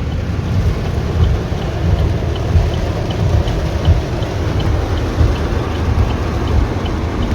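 Heavy rain falling, with wind buffeting the microphone in a low rumble. A faint, regular ticking repeats about three times a second under it.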